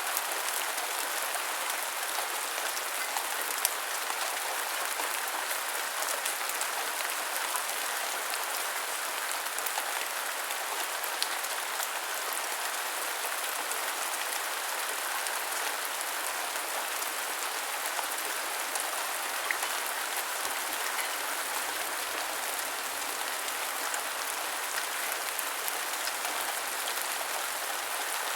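Heavy rain falling steadily, a dense even hiss with scattered sharper drop impacts.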